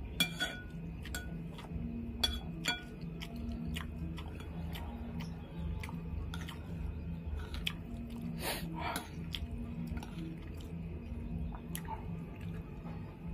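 A man chewing mouthfuls of rice with beef-skin rambak, with lip-smacking mouth sounds, while a metal spoon clinks and scrapes against a ceramic bowl a few times with a short ring. A low, evenly pulsing hum runs underneath.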